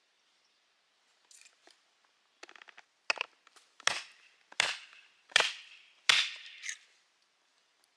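Hammer blows driving a log down onto a kindling splitter's blade: a few light taps and a short rattle, then four hard strikes about three-quarters of a second apart. The last strike is followed by a short trailing crackle.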